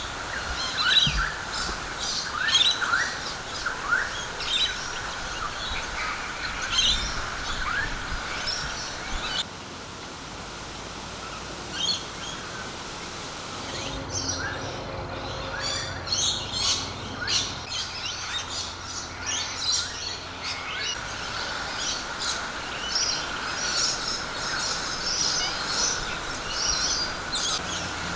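Several birds chirping and calling in many short, quick notes over a steady high drone.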